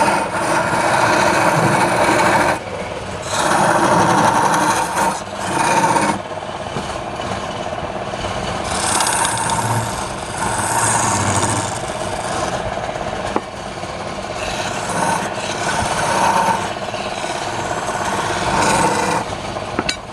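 Wood spinning on a woodturning lathe, scraping against a tool held to it. The scraping comes in passes a few seconds long that swell and ease off.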